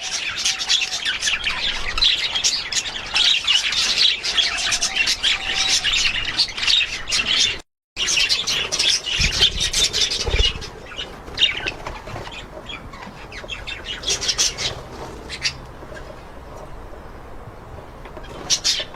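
A flock of budgerigars chattering with dense, high chirps and squawks. The sound drops out for a moment about eight seconds in, and from about ten seconds the chatter thins to scattered, quieter chirps.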